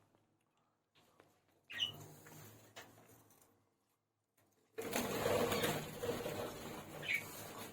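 Birds in a budgie nest box: a short chirp about two seconds in and another near the end, with a rapid rasping noise from about five seconds in.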